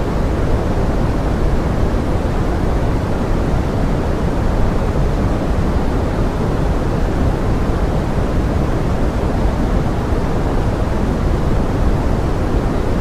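Steady pink noise: an even, deep rushing hiss, heavier in the lows than the highs, that never changes. It is the kind of sound used to stand in for heavy rain.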